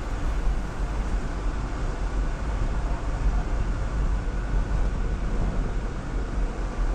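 Jeep Wrangler driving off-road, a steady low rumble of engine and tyres.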